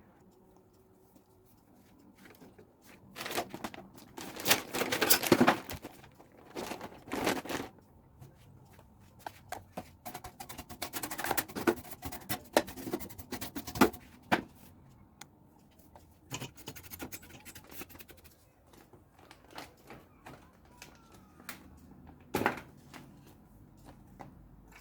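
Irregular scraping, clicking and knocking of tools and hands working on a circuit board, in clusters with pauses between them and one sharp knock near the end.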